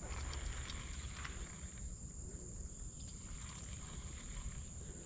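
Creek ambience: moving, splashing water under a steady, high-pitched insect drone from crickets.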